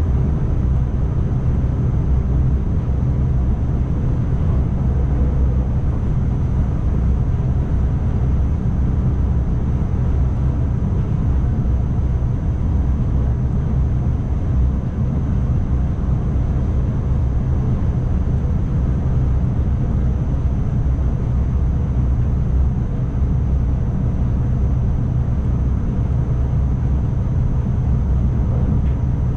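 Steady low running rumble of an ICMm electric multiple unit travelling along the track, heard from inside the driver's cab, with a faint steady high tone over it.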